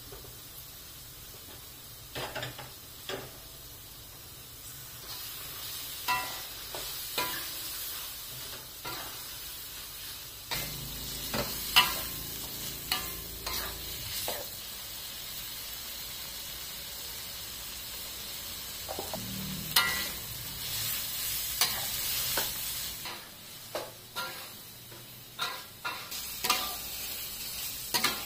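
Chicken frying in oil and spice paste in a wok, sizzling steadily while a metal spatula stirs it, with frequent sharp clicks and scrapes of the spatula on the pan. The sizzle grows louder about ten seconds in.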